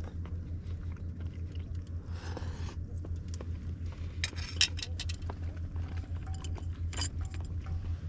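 Steady low hum of a running engine, with light metallic clinks and scrapes from gear being handled about halfway through and again near the end.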